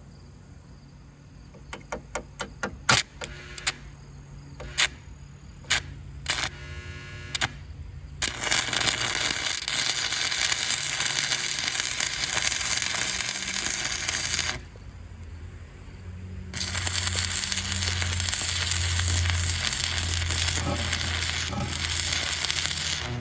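Arc welding on steel hinges and bumper. First comes a string of short sparking pops as the arc is struck for tacks. Then two long runs of steady crackling and hissing, about six seconds each, with a short pause between.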